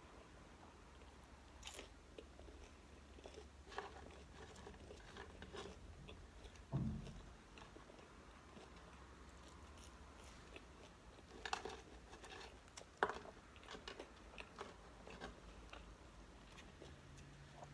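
Faint close-up eating sounds of a McDonald's meal: chewing and biting with scattered crisp crunches and small clicks, a dull thump about seven seconds in and a sharp click about thirteen seconds in.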